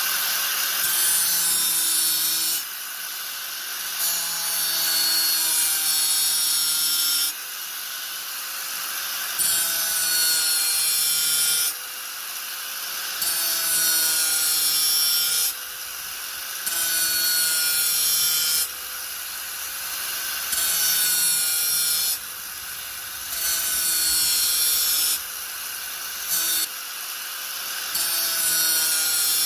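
Angle grinder running with its disc pressed into the work and eased off again about every four seconds. Loud, gritty stretches of two to three seconds alternate with shorter, quieter stretches of the motor's whine.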